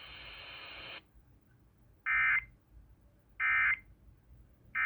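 Weather radio receiver after a warning message: a steady hiss of static that cuts off about a second in, then three short identical buzzing digital data bursts about 1.3 s apart, the EAS/SAME end-of-message code that marks the close of the alert.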